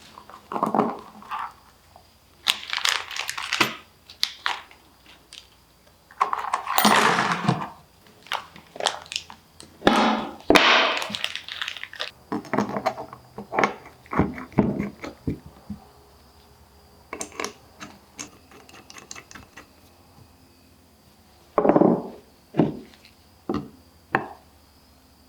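Irregular clicks, knocks and scrapes of hand tools and small metal parts being handled, typical of work on a carburettor on a bench. The busiest stretch is in the first half, with a short cluster again near the end.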